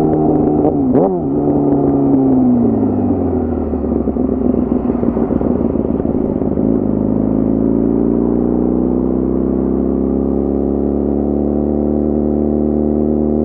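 Yamaha R6 inline-four sport bike engine: a quick throttle blip about a second in, then the revs fall as the bike slows, hold low for a few seconds, and climb slowly again as it accelerates.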